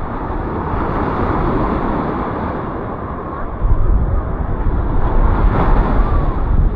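Sea water washing around and wind buffeting the microphone, with a heavy low rumble of wind noise coming in about halfway through.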